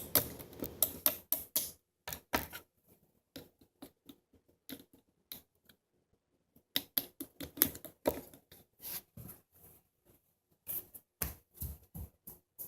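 Slime being squeezed and stretched by hand, making irregular sticky clicks and crackling pops in bursts with short pauses between.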